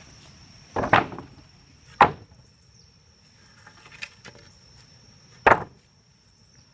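Three heavy chopping strikes, the first two about a second apart and the third a few seconds later, over a steady high-pitched insect buzz.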